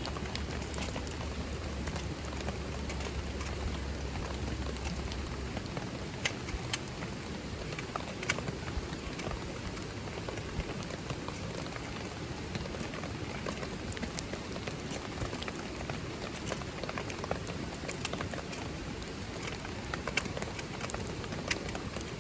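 Steady rain falling, with scattered sharp drop-like clicks throughout and a low rumble underneath for the first five seconds or so.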